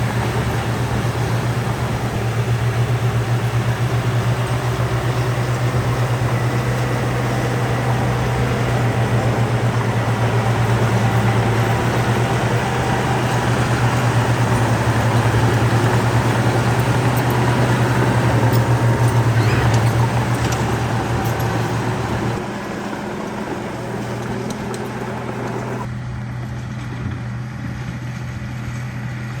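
Heavy diesel engine of earthmoving machinery running steadily with a deep drone and broad mechanical noise, easing off and quietening about two-thirds of the way through.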